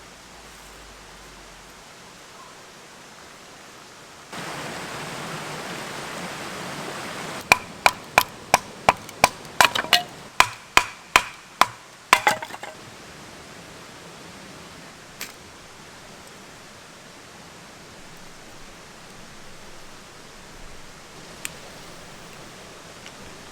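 A quick run of about a dozen hard strikes, roughly three a second, several with a brief ring, over a steady background hiss.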